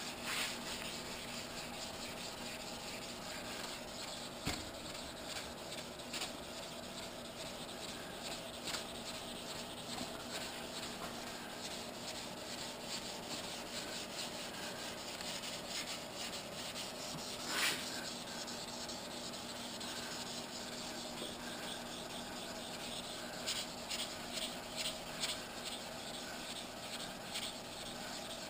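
600-grit wet sandpaper on a sanding block rubbing back and forth over the primer on a motorcycle gas tank, a steady scratchy rasp of repeated strokes. The strokes come faster near the end, and a single louder swish comes about two thirds of the way through.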